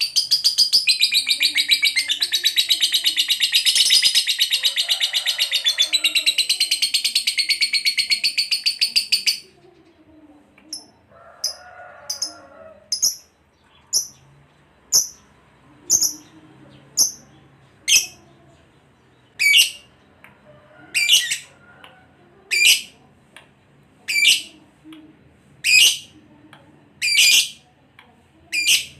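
Lovebird giving a long, very rapid rattling trill (the "ngekek" that keepers train for) that cuts off after about nine seconds. It is followed by single sharp chirps about one a second, getting louder toward the end.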